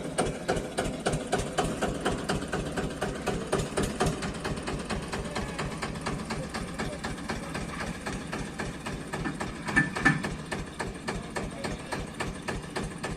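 Eicher tractor's diesel engine running with a steady, rapid pulsing beat, and a short louder noise about three-quarters of the way through.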